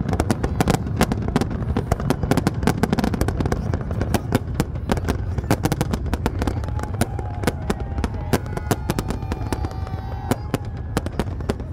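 Fireworks display: a rapid, continuous string of bangs and crackles from aerial shells bursting, over a low rumble.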